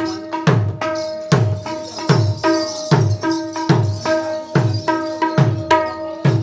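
Mridanga drum played in a steady rhythm: deep bass strokes that slide down in pitch, about two a second, between ringing strokes on the treble head.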